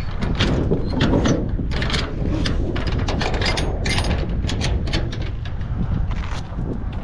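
A quick, irregular run of mechanical clicks and rattles, over a steady low rumble.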